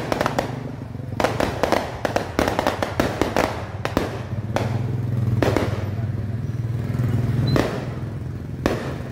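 Firecrackers and fireworks going off: sharp bangs in quick irregular clusters, over a steady low hum.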